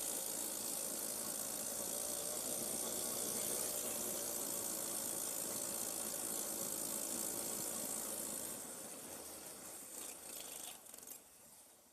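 Irbis Dingo T110 snowmobile's small single-cylinder four-stroke engine running steadily. About eight seconds in, it dies away, with a couple of brief irregular bumps before it stops.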